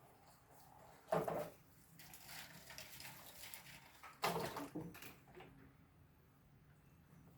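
Two short scraping knocks about three seconds apart, with faint rustling between, from block-laying work: a mason's trowel and concrete blocks being worked into mortar.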